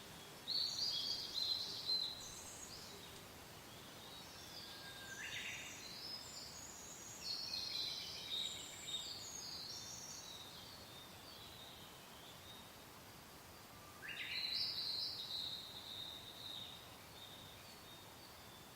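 Songbirds singing quick, high warbling phrases in three bouts, near the start, through the middle and again about 14 seconds in, over a soft steady wind hiss.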